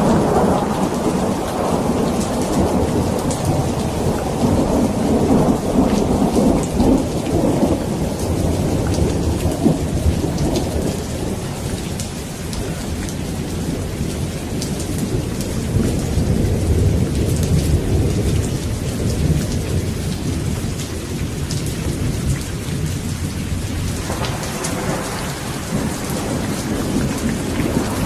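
Steady heavy rain with rolling thunder: a deep rumble that swells and fades over many seconds, strongest at the start and again near the end, under the hiss and patter of falling rain.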